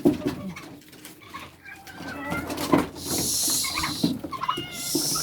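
Pet birds chirping in short, high calls, with two bursts of hissing noise, one about three seconds in and one near the end.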